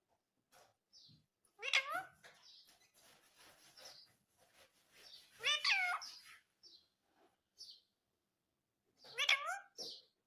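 Indian ringneck parrot giving three loud, drawn-out calls about four seconds apart, with faint short high chirps between them.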